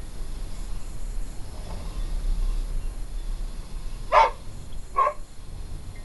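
A dog barking: two sharp barks a little under a second apart near the end, with a fainter one earlier, over a low steady rumble.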